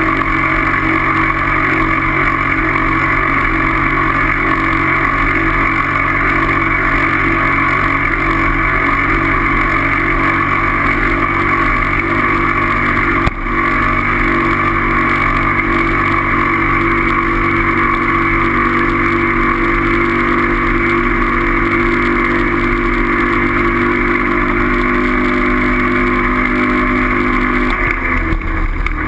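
Motorcycle engine running at a steady, constant speed with a loud rush of wind, heard while riding. There is a brief dip about 13 seconds in, and the engine note shifts near the end.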